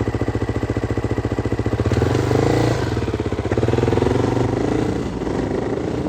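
Motorcycle engine idling with an even, rapid beat, then revved up about two seconds in and run harder for a few seconds before easing off.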